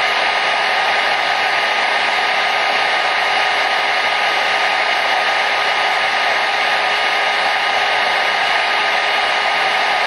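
Hair dryer running steadily: an even rush of blown air with a faint motor hum.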